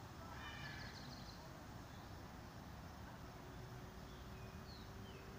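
Steady low outdoor rumble with faint high bird chirps: a quick cluster in the first second, then two short falling whistles near the end.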